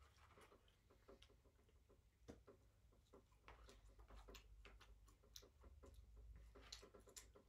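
Faint, close chewing of a fast-food meal: irregular small wet mouth clicks, mixed with light ticks and rustles of hands picking food out of a paper carton.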